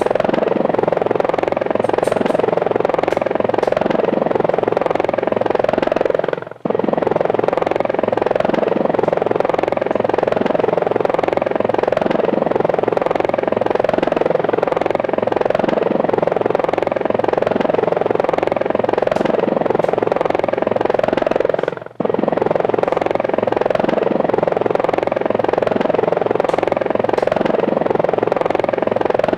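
Steady whirring of helicopter rotors, cut off briefly twice: about six and a half seconds in and again about 22 seconds in.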